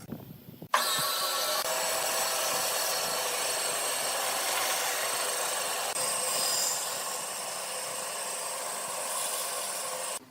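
Power tool running steadily against wood, starting suddenly about a second in and cutting off just before the end.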